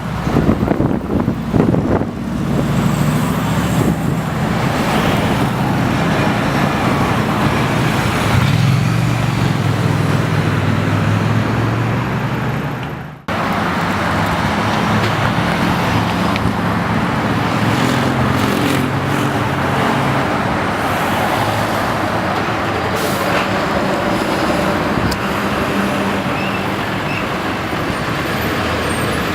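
Heavy fire-engine diesel running as it moves through traffic, with steady road noise. The sound cuts off abruptly about halfway through and picks up again.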